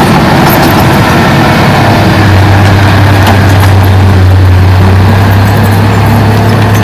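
Diesel engine of heavy earthmoving machinery running steadily, a loud low drone that settles into one even note about two seconds in, with faint ticks over it.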